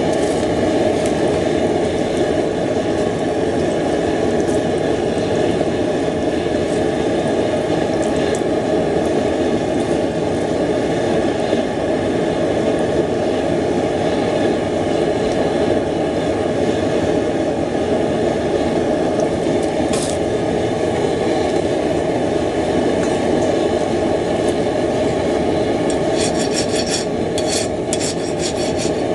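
Forge running with a steady roar. Near the end comes a quick series of short metal scraping strokes.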